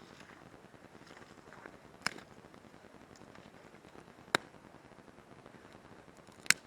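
Campfire with burning wood popping: three sharp pops about two seconds apart over a faint steady background hiss.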